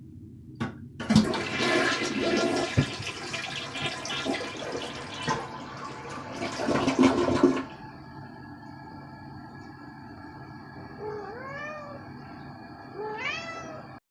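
A toilet flushing, with a loud rush of water lasting about six seconds. Then, over a steady hum, a cat meows several times near the end.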